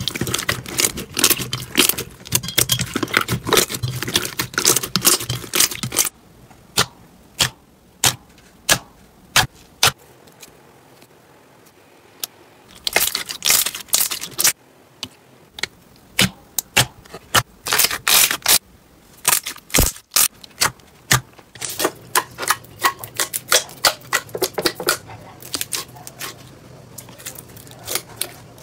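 Slime being pressed and worked by hand, giving rapid crackling and popping clicks, with stretches of sparser single pops in the middle.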